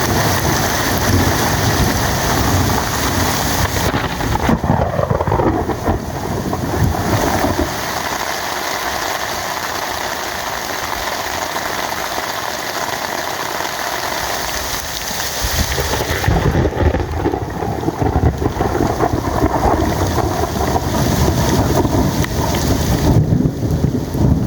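Heavy rain pouring steadily, with a deep rumble of thunder underneath that fades out about eight seconds in and comes back around sixteen seconds.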